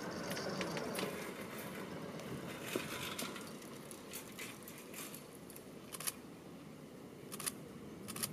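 A passing train's running noise dying away, leaving a faint steady background with a few sharp clicks.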